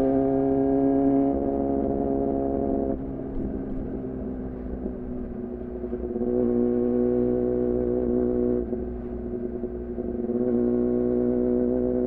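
2014 Yamaha R6 inline-four with an R9 titanium muffler and Leovince header, running at a steady pitch while riding. About three seconds in it turns quieter and rougher, picks up strongly again around six seconds, drops back just before nine, and returns near ten and a half seconds.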